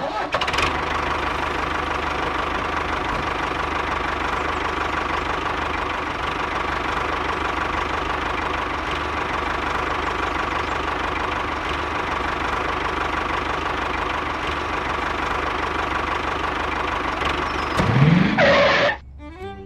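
Miniature model diesel engine starting up and running steadily. Near the end it gives a brief rise in pitch, then cuts off suddenly.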